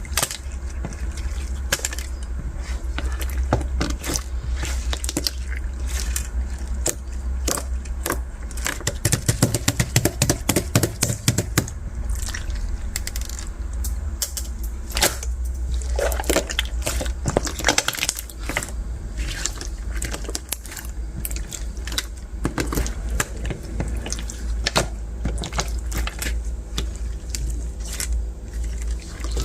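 Translucent bead slime being squeezed and poked by hand, giving a continual run of small wet clicks and crackles that is densest around ten seconds in.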